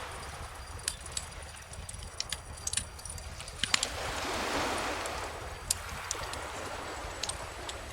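Wood bonfire crackling with scattered sharp pops, the loudest about halfway through, over calm ocean waves; one gentle wave washes in and out about midway.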